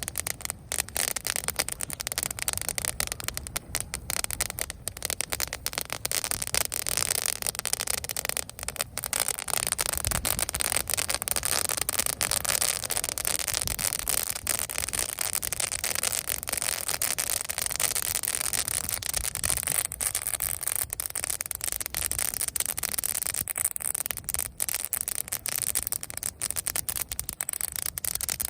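Campfire burning dry leaves still attached to dead branches, crackling quite loudly in a dense, rapid run of snaps and pops.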